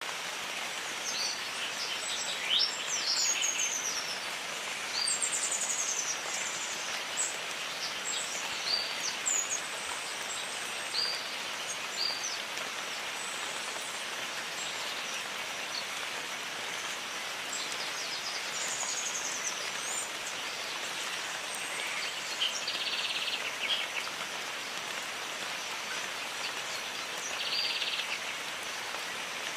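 Steady rain in a jungle, an even hiss, with birds calling over it: quick chirps and sliding whistles, thickest in the first dozen seconds and again about two-thirds through. Two short buzzy trills come in near the end.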